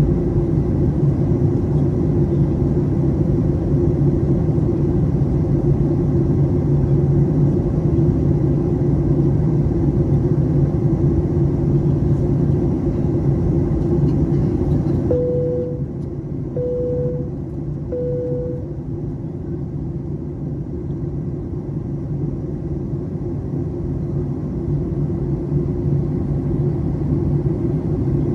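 Steady rumble and air roar inside an airliner cabin during descent. About halfway through, the higher hiss falls away and the cabin gets a little quieter. Just after that, three short tones of the same pitch sound about a second and a half apart.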